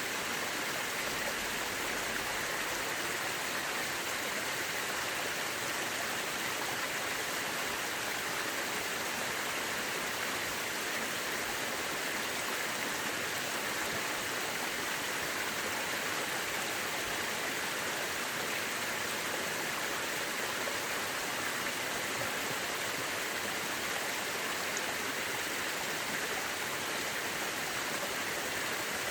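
Mountain river rushing over rocks: a steady, even water noise with no change.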